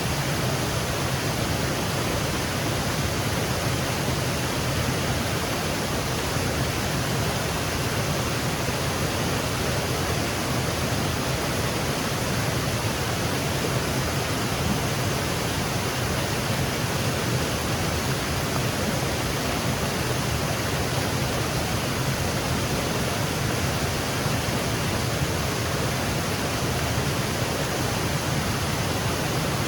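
Small woodland waterfall cascading over rocks: a steady, even rush of water.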